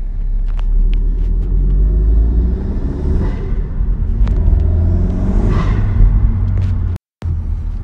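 Turbocharged engine of a 10th-gen Honda Civic with a PRL Cobra cold air intake, heard from inside the cabin while pulling away and accelerating. Twice it gives an airy turbo whoosh, the blow-off valve's 'pshhh', and the sound breaks off briefly about a second before the end.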